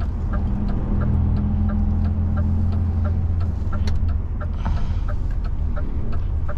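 DAF truck's diesel engine running in the cab, its low hum swelling for a couple of seconds after about a second in, while the turn indicator relay ticks steadily about three times a second.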